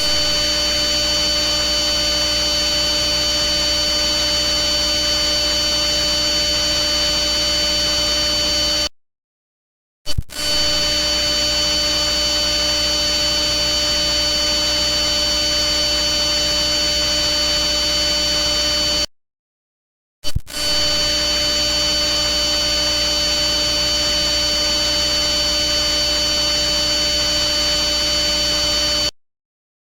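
Loud steady electronic buzz: several fixed tones over a hiss, like mains hum with static. It plays in stretches of about nine seconds, cut by a second of silence twice, and each new stretch starts with a click.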